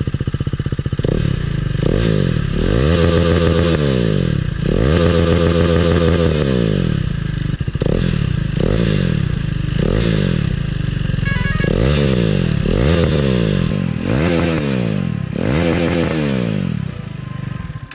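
KTM RC 390's single-cylinder engine through an aftermarket slip-on exhaust, revved over and over: about eight to ten blips, each rising in pitch and falling back to idle.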